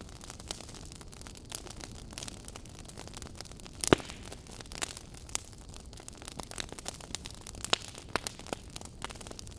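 Campfire crackling, wood snapping and popping in irregular clicks over a low steady rush of flame, with one loud pop about four seconds in.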